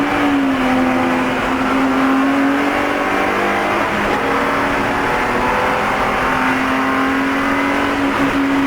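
Spec E46 BMW race car's 3.0-litre straight-six running at high revs, heard from inside the car, holding a fairly steady pitch with a few small dips.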